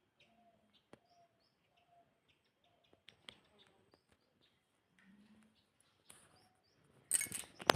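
Faint, short high-pitched cheeps from a baby bird, repeated every half second or so. Near the end a much louder rustling, crackling noise takes over.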